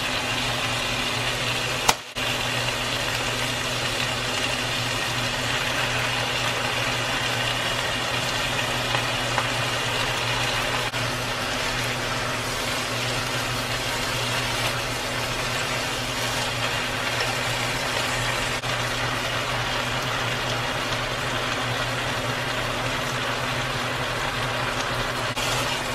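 Cabbage and sliced sausage stir-frying in a nonstick pan: a steady sizzle over a constant low hum as chopsticks stir. A sharp click about two seconds in.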